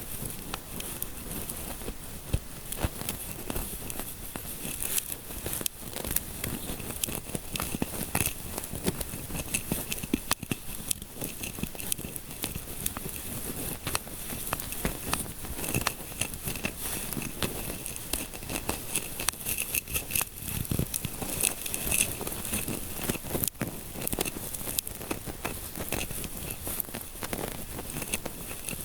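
Close-up ASMR scalp-massage sounds: fingertips rubbing and scratching close to the microphone, a continuous crinkly crackle full of small irregular clicks.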